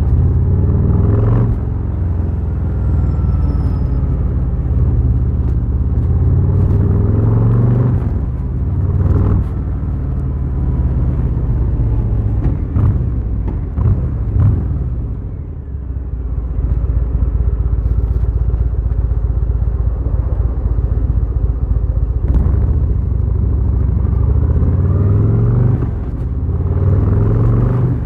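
Harley-Davidson Fat Boy's V-twin engine pulling a motorcycle along, its pitch rising several times as it accelerates through the gears. About halfway through the pitch drops and climbs again as it slows and changes gear, then it runs steadily before picking up again near the end.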